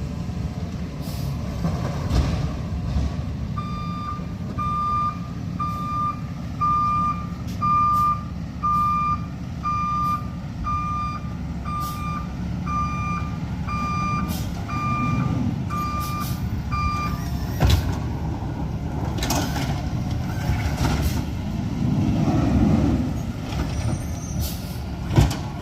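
Backup alarm of a Peterbilt 520 McNeilus ZR garbage truck giving plain, evenly spaced single-tone beeps, a little more than one a second, over the running truck engine while it reverses. The beeps stop about two-thirds of the way through. This plain beeping is what the truck is now "making only", in place of its normal backup sound, which counts as a messed up backup sound.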